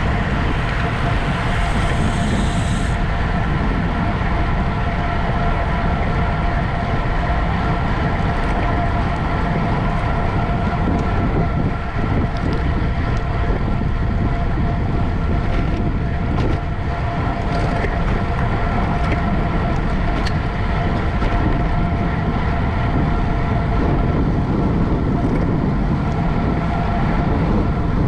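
Steady wind and road rush from a racing bicycle riding at speed, heard on a camera mounted on the bike, with a constant whine running through it.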